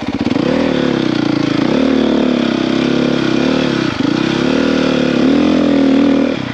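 450cc four-stroke single-cylinder dirt bike engine pulling away from a low idle, the revs rising and falling several times as the throttle is opened and eased off, then dropping back to a low idle near the end.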